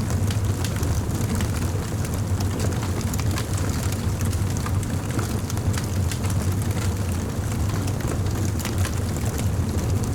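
Wood fire burning in a fireplace: a steady low rumble with frequent, irregular crackles and small pops.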